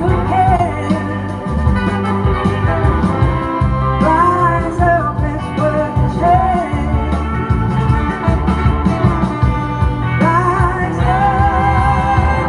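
Rock band playing a blues-rock song, with drums, bass, organ and guitar under a woman's sung lines, which come in briefly a few times and run on near the end.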